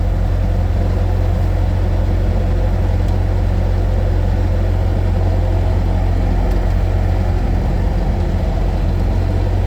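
Skid steer engine idling steadily as it warms up after a cold start, its hydraulics still cold.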